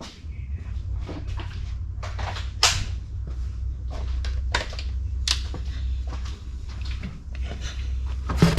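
Metal tools being handled: a string of separate, irregular clicks and clanks, the sharpest at about three seconds and five seconds in, over a steady low hum.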